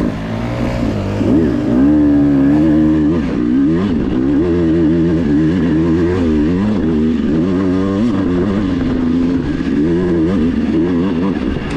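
Dirt bike engine under way, its pitch rising and falling again and again as the throttle is opened and closed.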